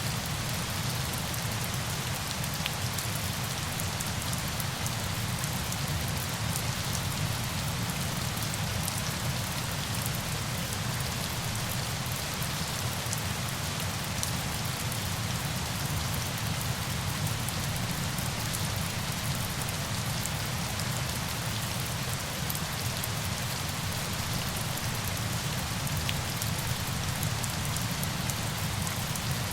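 Falling water: a steady, unbroken rush with a fine patter of drops.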